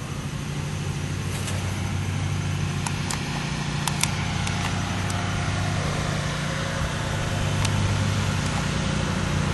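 A steady low mechanical hum, like an idling engine, with a few faint sharp clicks over it.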